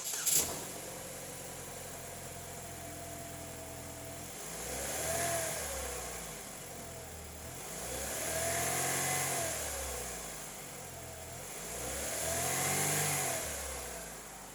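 2007 Chevrolet Cobalt's four-cylinder engine starting, then idling steadily. It is revved three times, each a smooth rise and fall in pitch lasting about two seconds, about four seconds apart.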